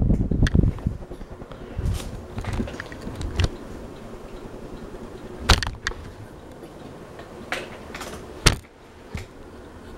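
Fanimation ceiling fan running on high: a steady whir, with its air buffeting the microphone in low rumbling gusts during the first second. Several short sharp clicks and taps come through over it.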